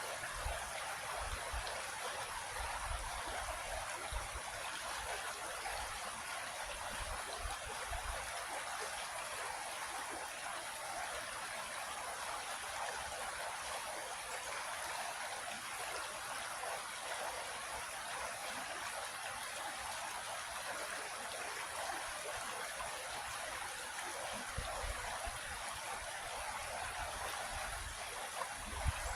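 A small creek flowing over rocks: a steady, even rushing and babbling of water.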